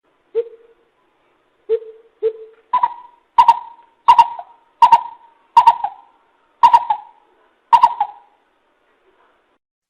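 Coucal calling a series of hollow hooting notes. Three lower hoots come first, then about seven higher hoots at an even pace of a little under one and a half a second, stopping near the end.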